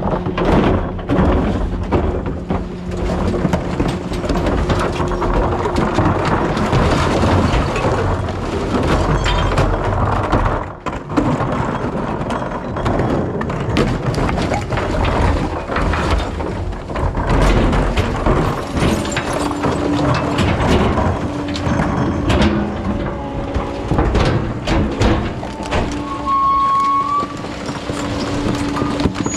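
Rear-loader recycling truck on the move: the engine drones steadily under a constant clatter of rattles and clunks. The drone changes pitch about two-thirds of the way through, and there is a short whine near the end.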